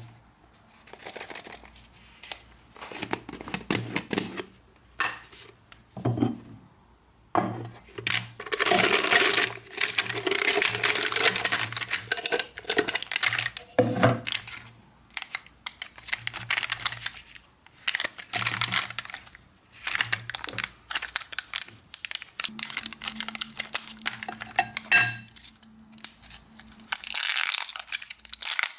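Plastic candy wrappers crinkling and tearing in irregular bursts, with clinks and taps of hard candy.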